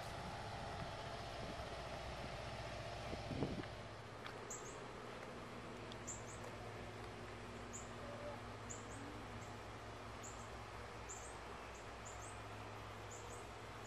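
Faint outdoor ambience: a small bird's short high chirps repeating about once or twice a second, over a steady low hum. In the first few seconds the hum is fuller and ends in a brief louder sound.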